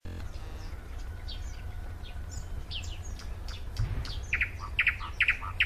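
Songbird singing: a string of short, varied chirps and quick whistled sweeps, then in the second half a phrase of repeated sharp notes about twice a second, over a steady low background rumble.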